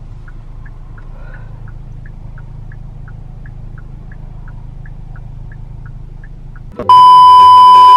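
Steady low rumble with faint ticks about three a second, cut off near the end by a loud electronic beep lasting about a second.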